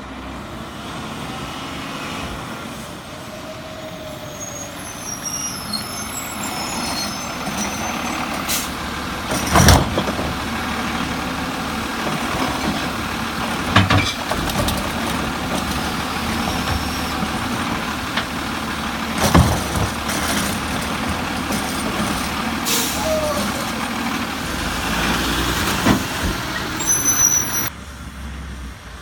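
Heil Rapid Rail automated side-loader garbage truck working, its engine running up steadily to power the hydraulic arm. Five loud bangs come a few seconds apart as carts are dumped into the hopper. The sound cuts off sharply near the end.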